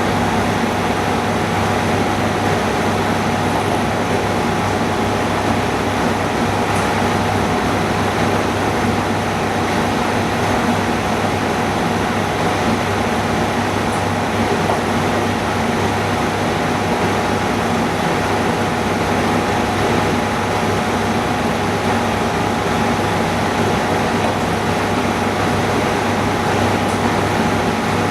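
Steady, unchanging mechanical hum of running equipment in the room, with a constant low drone and a faint whine held at one pitch.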